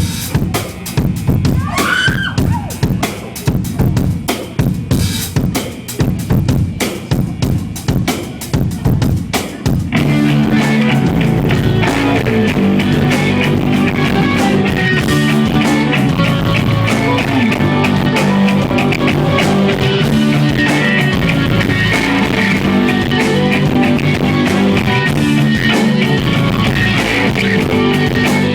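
Live rock band opening a song: a drum kit plays alone for about ten seconds, then electric guitars and bass come in with the drums and the full band plays on, loud and steady.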